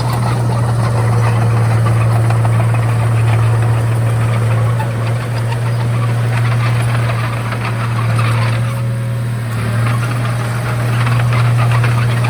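Diesel engine of a Komatsu D31A bulldozer running steadily under work, a deep even hum with a fine rattle over it.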